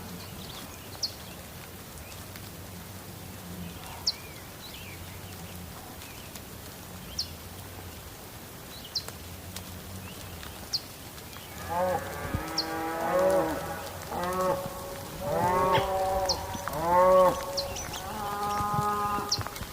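Steady rain hiss with scattered short high ticks. About halfway through, cattle start mooing, a run of several calls rising and falling in pitch that lasts until near the end.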